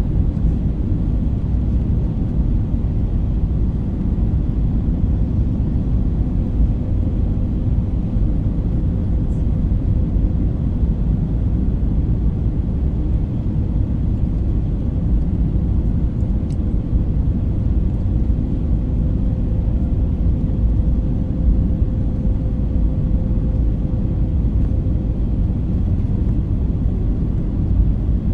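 Cabin noise inside an Airbus A320 on descent: a steady low rumble of airflow and engines, with a faint steady hum over it.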